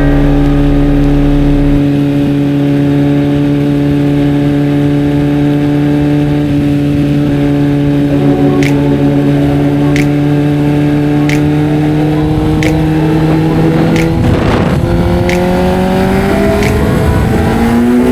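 Kawasaki Z900 inline-four engine holding steady cruising revs, then climbing in pitch over the last few seconds as the bike accelerates. A short rush of noise comes about two-thirds of the way through. Sharp ticks about every second and a half run through the second half.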